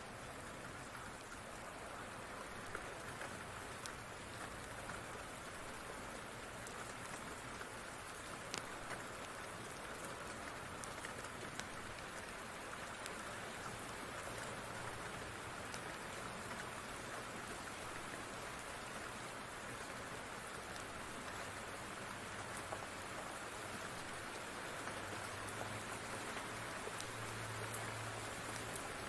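Steady rain falling, an even hiss with a few faint sharp clicks scattered through it.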